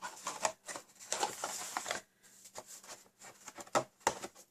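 Card stock and paper being handled: rustling and sliding with light clicks, and a few sharp taps near the end.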